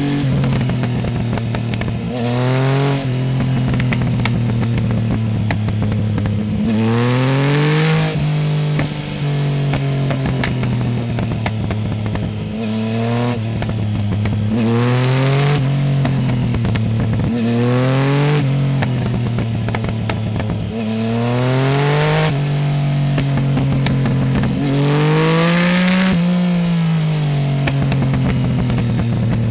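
Yamaha Tracer 900 GT's inline-three engine with a full Roads Italia exhaust and no dB-killer, heard close up while riding. The revs climb in repeated hard pulls and fall back sharply between them, about seven times.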